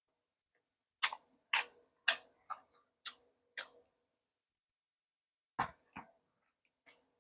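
Eating sounds during a Korean lunch-box meal: six sharp, crisp clicks about half a second apart, then two heavier knocks with a dull thud and one last click near the end.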